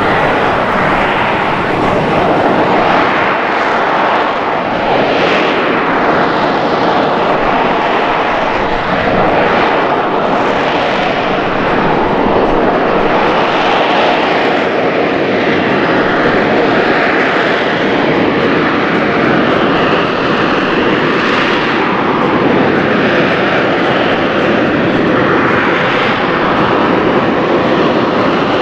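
AV-8B Harrier II jet's Pegasus turbofan engine running at high power, a loud, steady jet noise that swells and eases gently but never drops away.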